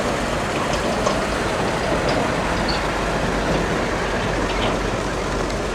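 Aircraft engine noise: a loud, steady, rushing roar with a deep rumble underneath.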